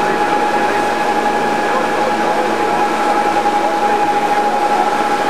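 Tour boat's engine running steadily under way, a constant whine over a dense even rumble.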